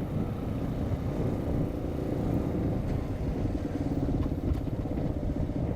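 Engine of a small off-road machine running while riding along a road, with a steadier engine note settling in about halfway through.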